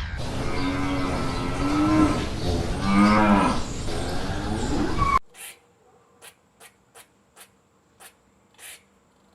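Domestic cow mooing, two long drawn-out moos over a rumbling background, cut off abruptly about five seconds in. A run of faint sharp clicks follows.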